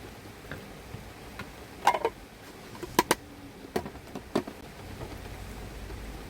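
A handful of sharp clicks and knocks, as of objects being handled: a short cluster about two seconds in, two quick sharp clicks a second later, then two single knocks, over a steady hiss.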